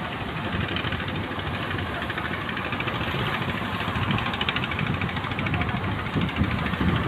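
A fishing boat's engine running steadily with a fast, even beat, under a rushing noise of wind and sea.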